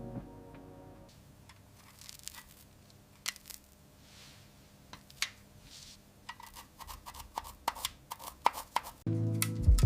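Restoration work noises: scattered clicks, scrapes and light taps of tools on parts, with a quicker run of clicking taps in the second half. Background music drops out a second in and starts again near the end.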